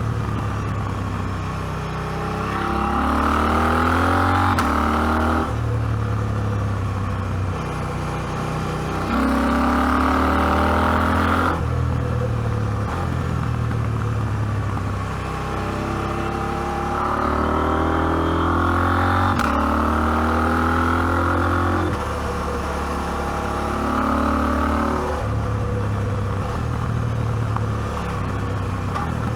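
KTM 790 Adventure's parallel-twin engine pulling uphill, revving up and rolling off several times as it accelerates.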